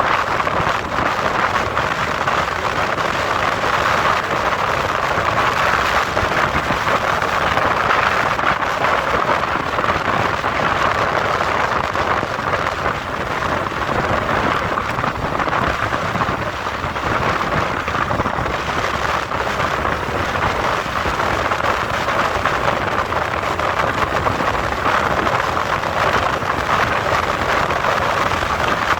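Steady rushing noise of wind and road on a moving motorcycle, with no distinct engine note standing out.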